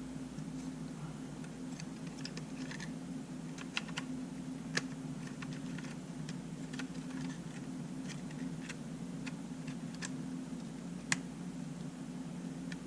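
Scattered small, sharp clicks and taps of hand tools and small parts at an opened-up Sony A7 mirrorless camera during disassembly, over a steady low hum.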